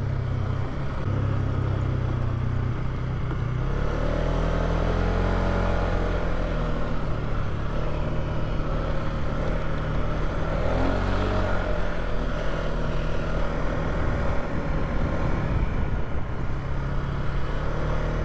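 Polaris ATV engine running while riding a dirt trail, its pitch rising about four seconds in and shifting up and down as the throttle changes.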